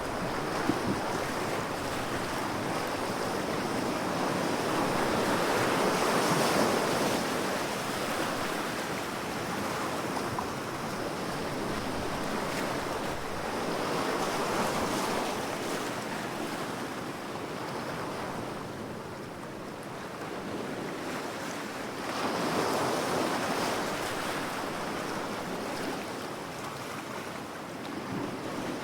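Ocean waves breaking and washing on a shore, a steady rushing surf that swells and ebbs every several seconds.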